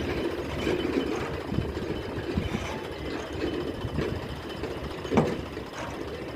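Tractor diesel engine running with a fast, rhythmic knocking chatter, and one sharp clank about five seconds in.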